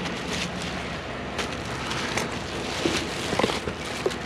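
Hands rummaging through a bag of discarded shoes: scattered brief rustles and light knocks over a steady background rush.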